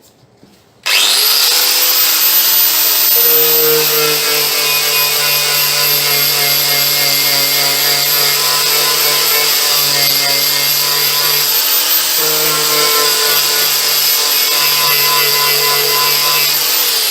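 Angle grinder fitted with a paint and rust remover wheel, starting up about a second in and stripping paint off sheet steel. It runs for about sixteen seconds with a high whine, its tone shifting a few times as it is pressed on, then winds down at the end.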